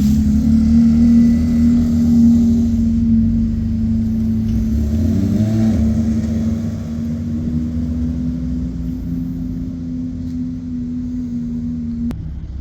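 Sports car engine running at a steady low note, with a short rise in pitch around the middle; the note cuts off suddenly near the end.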